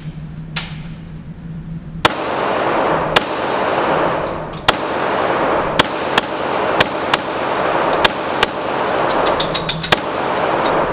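A string of handgun shots at a shooting range, about ten sharp bangs starting about two seconds in. They come roughly a second apart, quicker toward the end, and each is followed by a loud wash of echo.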